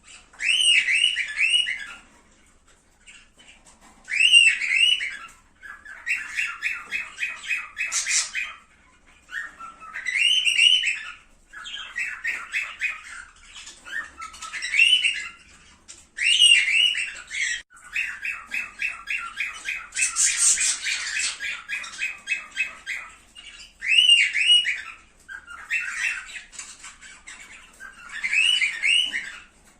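Cockatiels calling: a string of loud chirping calls of about a second each, with quiet gaps between them. Two longer runs of rapid, evenly repeated chattering notes come about a quarter of the way in and again past the middle.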